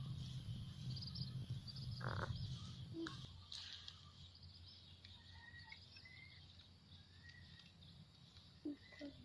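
Faint wild birds calling: short high chirps, then several brief whistled notes. A low rumble underneath fades out after about three seconds, and there are a couple of soft knocks near the end.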